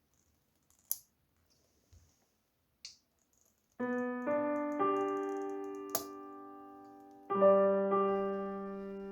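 Background piano music: soft sustained chords begin about four seconds in and change a few times, after near silence broken by a few sharp clicks.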